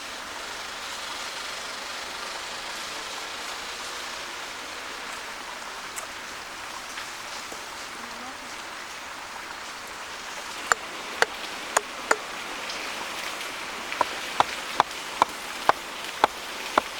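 A steady hiss like rain, then sharp knocks of a tool striking wood, starting about two-thirds of the way in. They come in two runs at about two strikes a second: four, a short pause, then about eight more.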